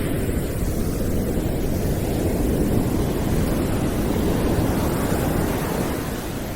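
Steady low rushing noise, deep and surf-like, swelling at the start and easing slightly near the end.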